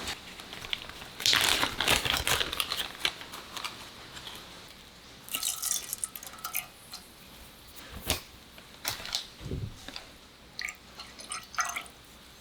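Objects being handled at close range: bouts of rustling and small clicks, with a single sharp knock about eight seconds in.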